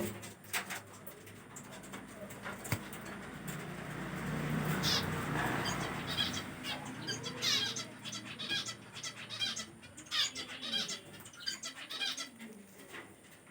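Sun conure making many short, high chirps and clicks, with a broad rustling noise around the middle.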